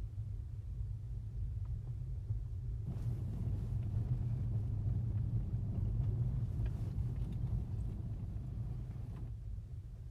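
Car driving along a road: a steady low rumble of engine and road noise, with a louder hiss of tyres on the surface from about three seconds in until near the end.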